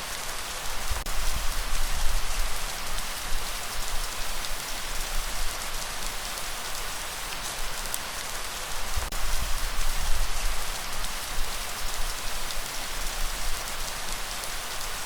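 Steady rain falling in a dense, even patter. A low rumble swells up twice under it, about a second in and again around nine seconds.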